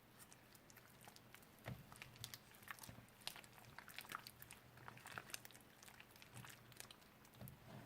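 Slime being squished and worked by hand: faint, irregular crackles and small pops, starting about a second and a half in, over a low steady hum.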